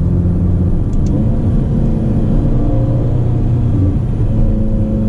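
Ferrari Portofino's twin-turbo V8 running at moderate revs while cruising, with road rumble, heard from inside the cabin. The engine note shifts pitch a couple of times.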